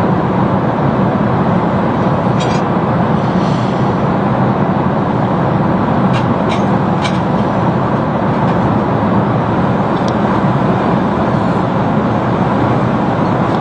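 Steady airliner cabin noise in flight: the even rush of engines and airflow. A few faint light clicks sound over it.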